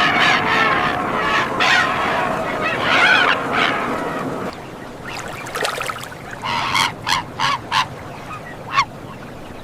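A flock of birds honking, many calls overlapping; about four and a half seconds in it cuts to a quieter clip with a few short, sharp calls.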